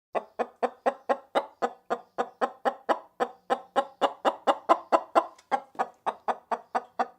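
Chicken clucking rapidly and steadily, about four short clucks a second.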